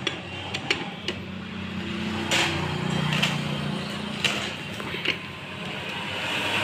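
Metal parts and hand tools clinking and knocking during motorcycle engine assembly: a series of sharp, irregular taps over a steady low hum.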